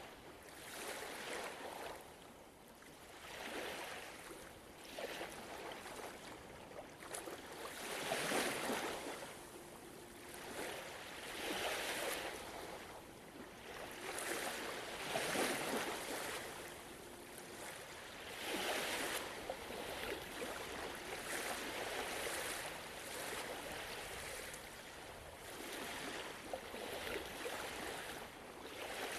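Gentle ocean waves washing onto the shore, each swell of surf rising and falling every few seconds, the strongest about 8 and 15 seconds in.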